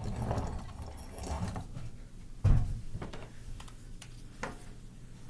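Handling noises from a small metal model steam engine being readied: low shuffling and light clinks, one loud thump about two and a half seconds in, and a few sharp clicks.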